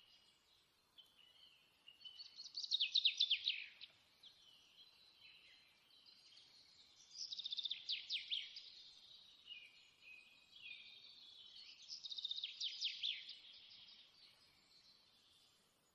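A songbird singing: rapid trilled phrases come about every four to five seconds, with softer chirps between them.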